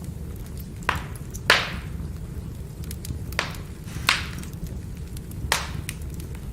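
Burning firewood crackling over a steady low rumble, with five sharp pops, the loudest about a second and a half in, and fainter ticks between them.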